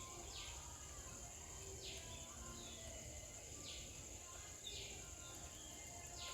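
Outdoor ambience: a steady high-pitched insect drone, with a bird giving a short, quickly falling call about every second and a half.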